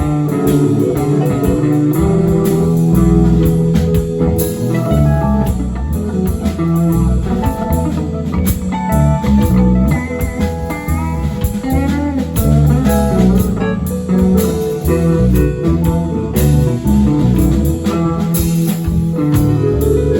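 Band playing an instrumental jam with electric guitar lead over bass guitar and drum kit, with no singing.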